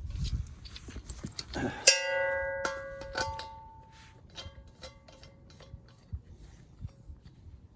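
A metal object is struck hard once and rings like a bell, the tone fading over about two seconds. A string of lighter metallic clinks and taps follows.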